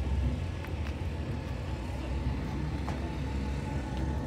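Steady low rumble of a car engine running, with a few faint clicks.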